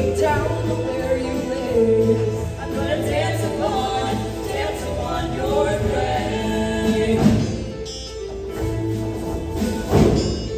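Show choir singing with an instrumental accompaniment over a steady bass line. Two loud percussion hits land, one about seven seconds in and one near the end.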